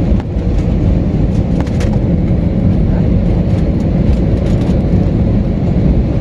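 A loud, steady low rumble of vehicle noise, with a few faint clicks.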